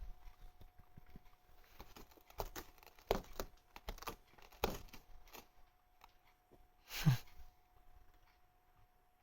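Scattered rustling, scratching and light knocks of a cat playing and pawing, with a louder rustle about seven seconds in.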